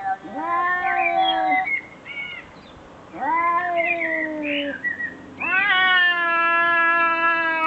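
An animal calling: three long, drawn-out wails, each held steady in pitch, the last the longest at about three seconds, with short high squeaks in between.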